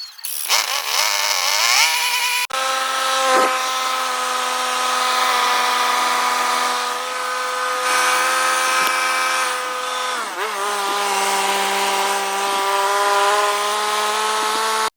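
Engine of an engine-driven welding machine spinning up over about two seconds, then running steadily at high speed. About ten seconds in, its speed drops a step and it runs on at a lower, steady speed.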